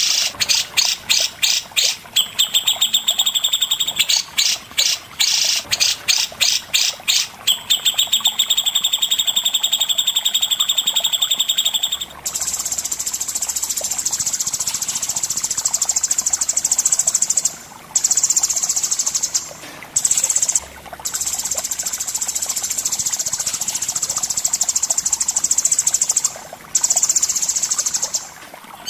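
Songbird calls from a cucak jenggot and cendet masteran track. A rapid series of repeated sweeping chirps runs for about twelve seconds, then gives way to a long, high buzzing trill that breaks off briefly a few times.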